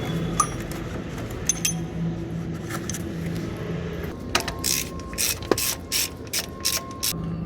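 Mechanical clicking like a ratchet or gear mechanism over a steady low hum, turning into a quick run of sharp clicks about four seconds in that stops shortly before the end.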